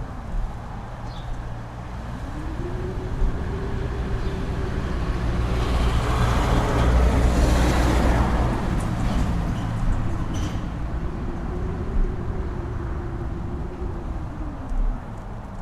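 Strong wind gusting over a mountain top, building to a peak about halfway through and easing off again, with a deep rumble and a howling tone that rises, holds and falls.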